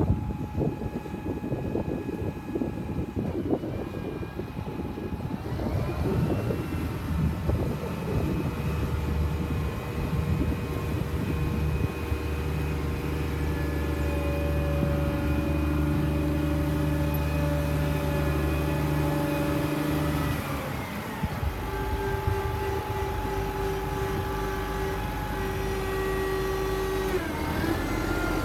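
2003 Challenger MT765 tractor's diesel engine running. Its speed climbs about five seconds in and holds high for a while, drops back about twenty seconds in, and climbs again near the end.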